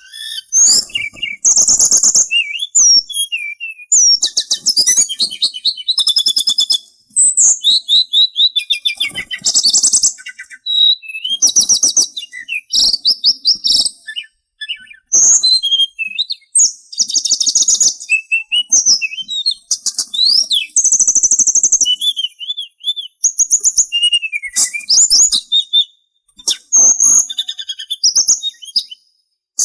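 Sulingan songbird singing a long, varied song of fast, very high trills and sharp chirps with short whistled glides, in bursts broken by brief pauses.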